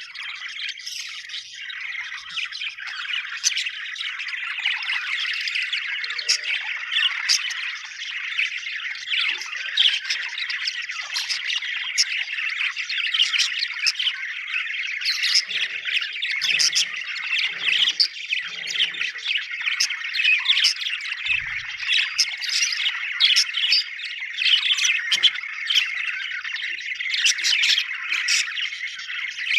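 A flock of budgerigars chattering continuously, a dense warble with many sharp, high chirps; the busy chatter of happy budgies.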